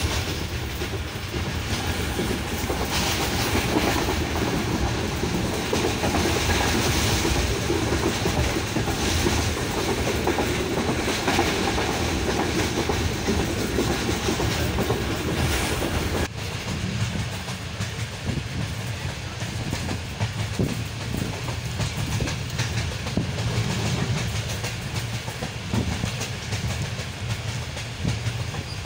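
Passenger train running along the track, heard from inside the railway carriage: the steady running noise of the wheels on the rails. About sixteen seconds in the sound changes abruptly and becomes deeper, with less of its hiss.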